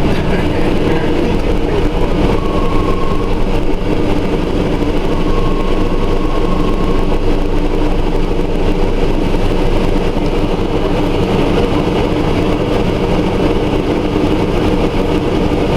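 Scania Omnidekka double-deck bus's diesel engine running steadily, with faint short whines about two and a half seconds and five seconds in.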